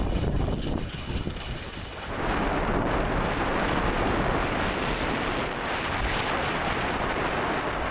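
Strong wind buffeting the microphone, a heavy low rumble that eases briefly and then comes back as a louder, broader rush from about two seconds in.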